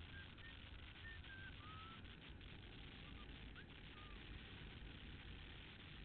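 A few short, faint bird chirps in the first four seconds, over a steady low rumble and hiss.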